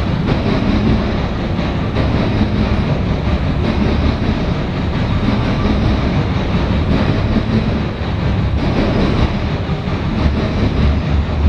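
Cars of a loaded CSX coal train rolling past at close range: a steady loud rumble and rattle of wheels on rail, with clickety-clack over the rail joints.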